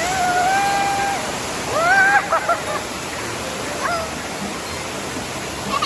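Waterfall rushing, a steady noise of falling water, with children's voices calling out over it: one long held call in the first second and another shorter call about two seconds in.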